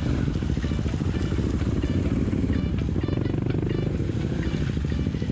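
Dirt bike's single-cylinder engine running under riding load on a muddy trail, its rapid firing pulses steady throughout, with background music over it.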